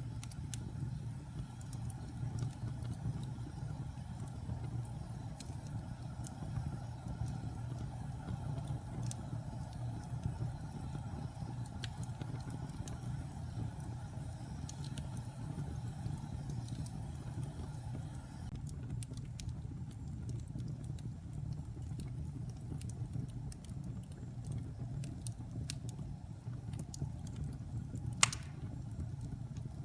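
Wood fire burning in a fireplace: a steady low rumble of flames with scattered crackles, and one loud sharp pop near the end.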